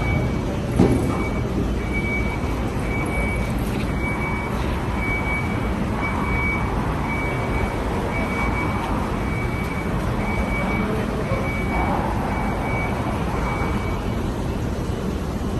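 Steady, loud rumbling noise with a short high electronic beep repeating about every half second, like a reversing or warning alarm. The beeping stops shortly before the end, and there is a single knock about a second in.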